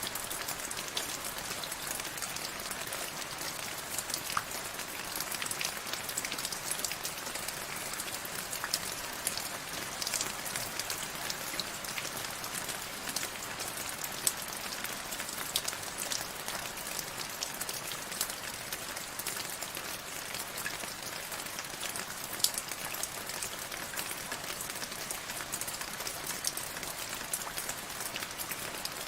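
Steady rain falling on a surface, a constant hiss dotted with the sharp ticks of individual drops.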